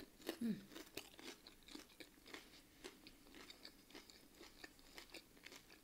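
Close-up chewing of a breaded chicken strip: soft, irregular crunches and wet mouth clicks, quiet and evenly spread.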